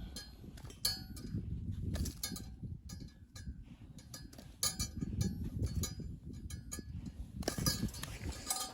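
Irregular light metallic clinks and knocks, some ringing briefly, over a steady low rumbling noise.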